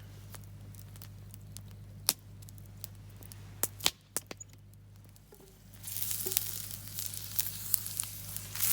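A few sharp clicks, then from about six seconds in, garlic in hot oil starts sizzling in a deep campfire frying pan, growing louder with dense crackle.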